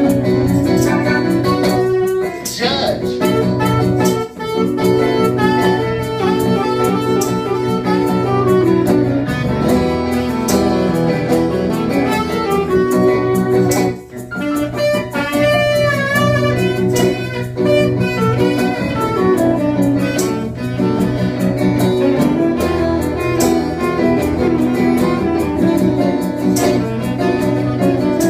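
Live band playing an instrumental break in a slow blues-rock song: a tenor saxophone and another lead instrument play melodic lines over strummed guitar and a steady rhythm.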